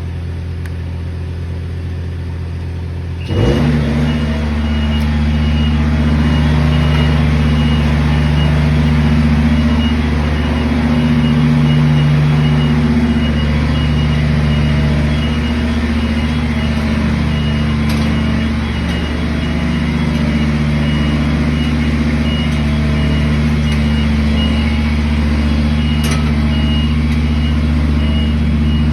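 Skyjack SJ7127 scissor lift's engine running steadily, then picking up speed about three seconds in, when the lift's motion alarm starts a fast, high, steady beeping.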